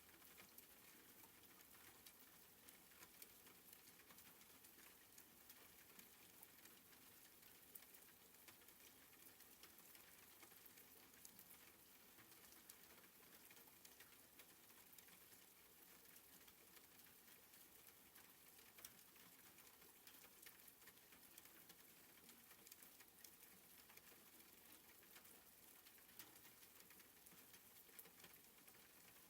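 Very faint soft rain: an even hiss with scattered light ticks of drops.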